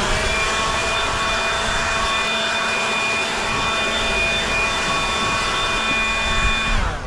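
Leaf blower running at full speed with a steady whine, used to blow debris off the roof; it is switched off near the end, its pitch dropping as it winds down.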